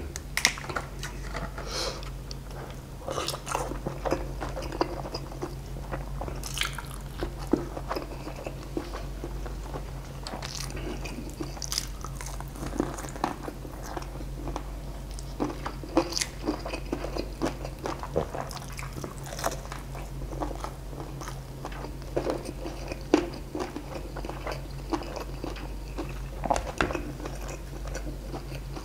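Close-miked chewing and biting of crispy fried chicken and rice, with irregular wet mouth clicks and crunches of the battered skin throughout.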